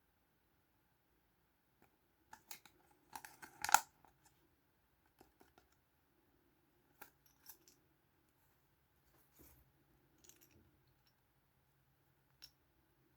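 Small plastic Kinder Surprise toys and parts being handled, with scattered light clicks and taps. The loudest cluster comes about three to four seconds in, followed by a few single ticks.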